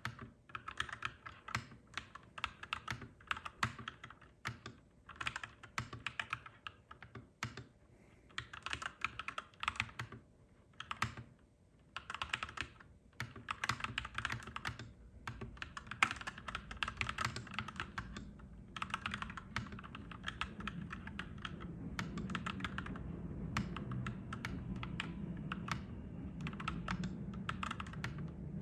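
Clacky mechanical keyboard being typed on in quick runs of keystrokes with short pauses. A low rumble builds up underneath through the second half.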